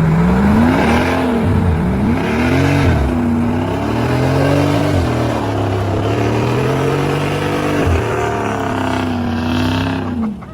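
A vehicle engine revving up and down over and over, its pitch rising and falling about once a second.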